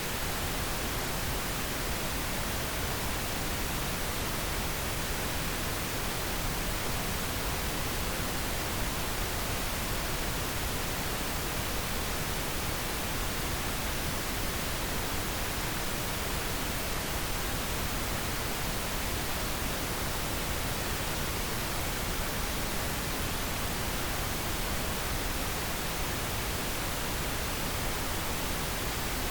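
Steady pink noise, an even, unchanging hiss spread across the whole range from low to high with no tones or events.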